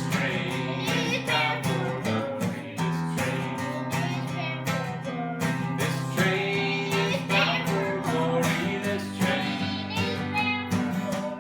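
Acoustic guitar strummed in a steady rhythm with singing, a children's voice among them.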